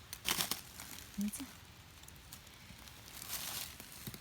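Dry forest-floor litter rustling and crackling as it is handled by hand: a short crackle at the start and a longer rustle near the end.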